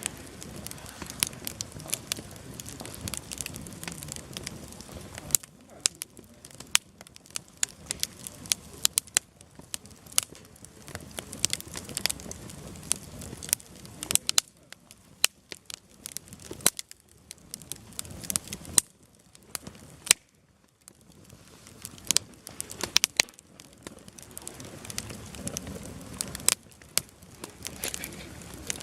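Firewood burning in a campfire, crackling with frequent sharp pops and snaps over a soft hiss. The crackling briefly thins out about two-thirds of the way through, then picks up again.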